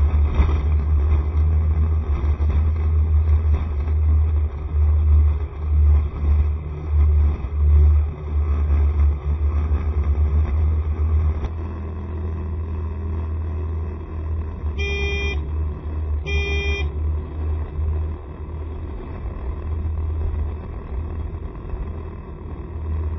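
Ride on a Honda SCR110 scooter: a heavy, fluctuating low rumble of riding, easing a little about halfway through, with two short horn beeps in the second half.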